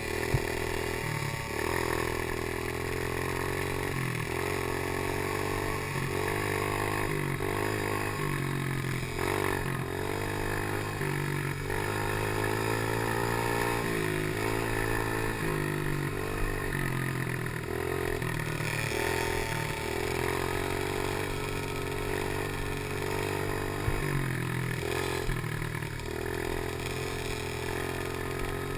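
Small 90cc pit bike engine revving up and down again and again while being ridden, its pitch rising and falling every few seconds, with a few short knocks now and then.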